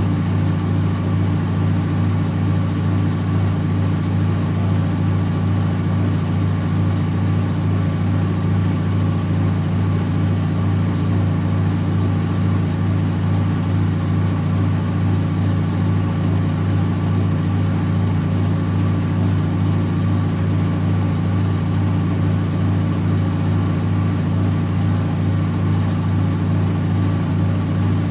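Servis Automatic M3008B washing machine in its final spin at 800 rpm: drum and motor turning at a steady high speed with an even, unchanging hum.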